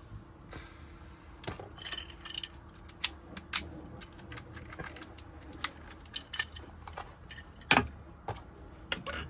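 Keys and small metal lock parts clinking and clicking as they are handled, an irregular string of sharp clicks with one louder knock near the end.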